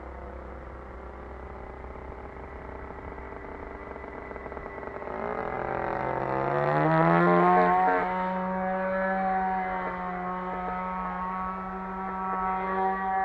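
RCGF 20cc single-cylinder two-stroke petrol engine on an RC model airplane, running at low throttle and then opened up about five seconds in. Its pitch rises for a couple of seconds, is loudest just after the rise, and then settles at a steady mid-throttle speed with a brief surge near the end.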